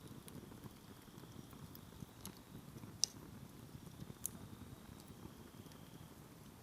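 Firewood campfire burning: a low crackling rumble of the flames with sharp pops of the burning wood, the loudest about three seconds in and others a little before and after.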